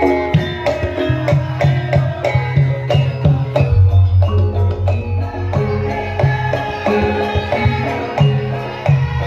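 Live Javanese gamelan music for a lengger dance, with struck metal keys and gongs ringing over a steady hand-drum rhythm.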